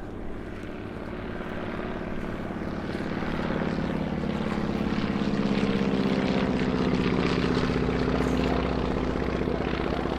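Propeller aircraft's piston engine flying by, growing louder over the first half, then holding near its loudest before easing a little near the end.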